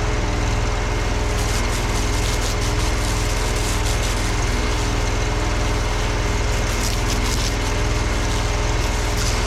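Gas engine of a pressure washer rig running steadily.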